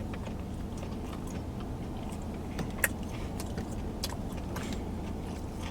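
Steady low hum of a vehicle cabin with the engine idling, with a few faint clicks and small ticks scattered through it and one sharper click about three seconds in.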